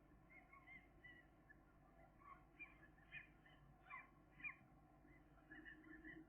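Gull chicks peeping: many short, high calls in quick succession, some bending in pitch and overlapping, a few louder ones about two thirds of the way through.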